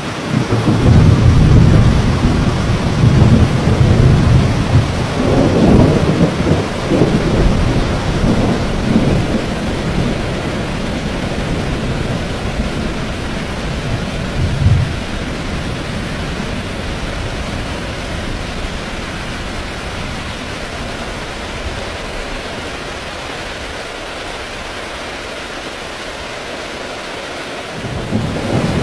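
Heavy rain pouring steadily through a thunderstorm. A long roll of thunder rumbles for about the first ten seconds, a shorter rumble comes about halfway, and another roll of thunder begins near the end.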